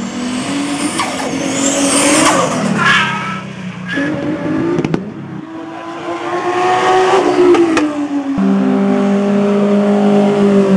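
Cars on a racetrack passing one after another, their engines rising and falling in pitch as they accelerate through a corner and change gear. The sound changes abruptly twice, and a steadier engine note holds near the end.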